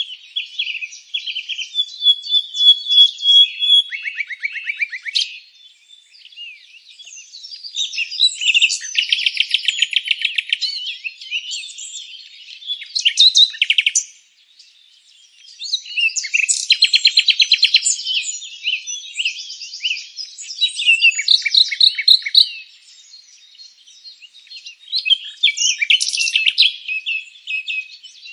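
Several songbirds singing and chirping together in a high, busy chorus of quick trills, rapid note series and short chirps. It comes in loud bouts with brief quieter gaps.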